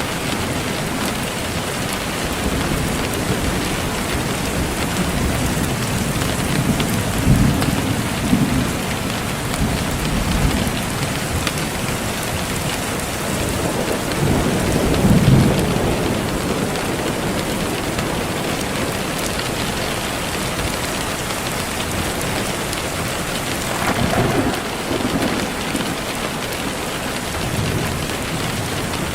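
Steady heavy rain hissing, with low rolls of thunder swelling several times: about a quarter of the way in, midway (the loudest), and again near the end.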